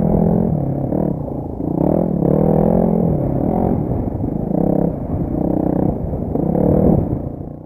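Single-cylinder 250 cc four-stroke motorbike exhaust while riding, its pitch rising and falling over and over as the engine revs up and comes off the throttle. The sound drops away suddenly at the very end.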